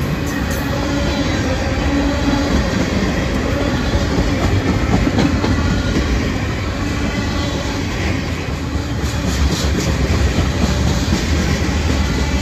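Freight cars of a slow-moving mixed freight train rolling past: a steady rumble of steel wheels on the rails, with scattered wheel clicks.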